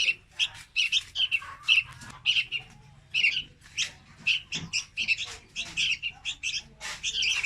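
Young red-whiskered bulbul calling: an unbroken run of short high chirps, about three or four a second.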